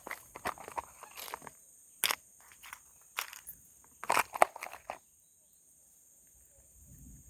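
Irregular crunching and rustling clicks, some sharp and loud, in clusters over the first five seconds, then stopping. Behind them crickets or other night insects keep up a steady high-pitched chirring.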